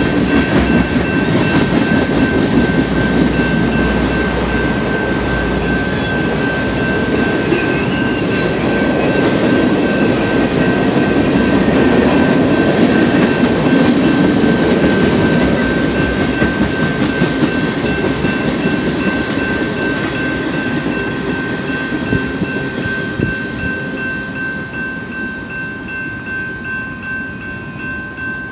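Freight tank cars rolling through a grade crossing, a loud steady rumble with wheel clatter, while the crossing bell rings without a break. The rolling noise fades over the last several seconds as the end of the train passes, leaving the bell.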